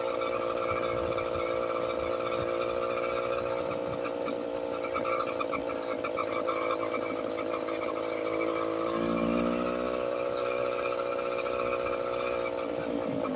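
Motorized bicycle's small engine running steadily under way, with the pitch rising briefly about nine seconds in.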